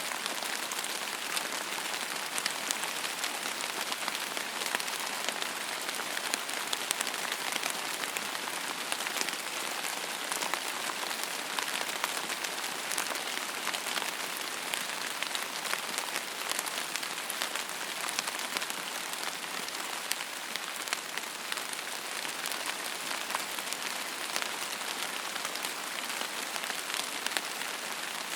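Steady rain falling on a hard surface: an even hiss dotted with many small, sharp drop ticks.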